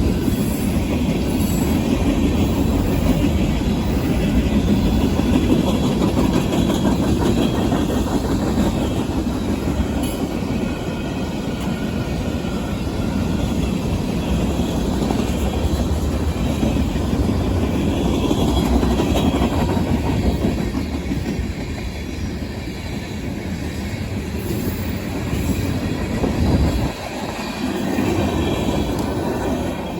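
Freight train cars rolling past on steel wheels: a steady, loud rumble and clatter of wheels over the rails, easing briefly near the end.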